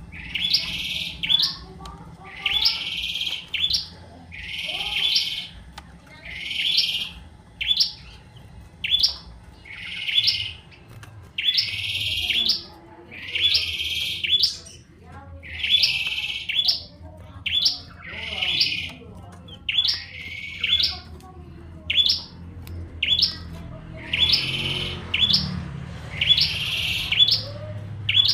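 Prenjak tamu, a prinia, singing busily: the same loud call repeated about once a second, each a longer high note followed by a short sharp one.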